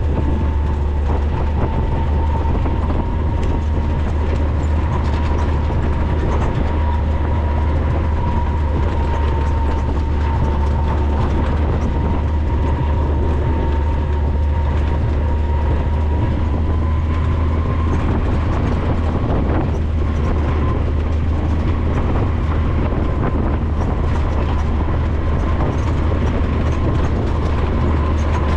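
Maverick 4x4 running steadily along a trail, heard from on board: a constant low engine drone with a faint whine that rises slightly in pitch over the second half, and light rattling and clicking throughout.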